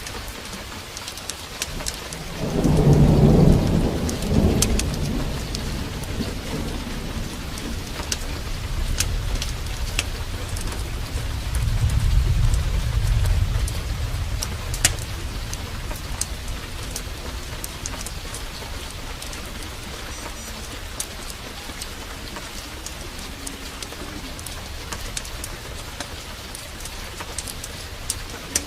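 Heavy rain falling steadily, with thunder: a loud rumble about two and a half seconds in, the loudest moment, and a second, softer rumble around twelve seconds in. Scattered sharp crackles run through it.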